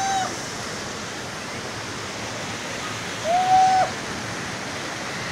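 Steady rush of falling water, as from a waterfall. A single short held call, a voice or an animal, sounds about three seconds in.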